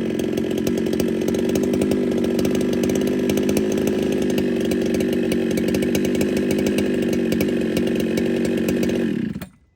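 Ported Husqvarna 395 two-stroke chainsaw running steadily at high revs through a milling cut. It cuts off suddenly near the end.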